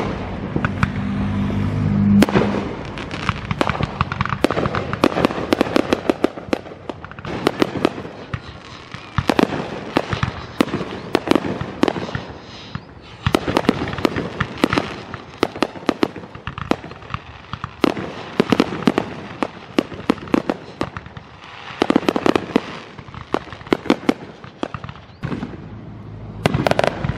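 Aerial fireworks display: shells bursting with bangs and dense crackling. The bursts come in volleys every few seconds, with short lulls between.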